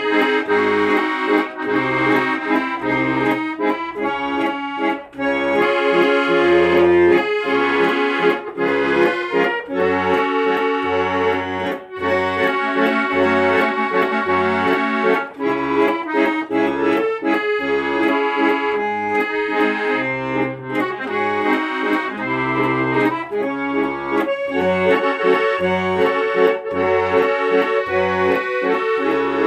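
Accordion music: a melody over sustained chords with a regular bass line.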